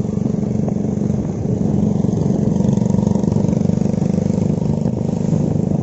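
Motorcycle engines running steadily at cruising speed on the move: a constant low drone that holds its pitch.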